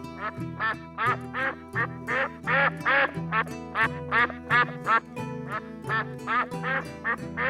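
Duck quacking over and over in quick nasal calls, about three a second, over steady background music.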